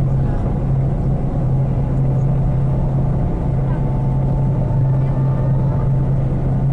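Steady low drone of a large vehicle's engine running at constant speed, with faint voices in the background.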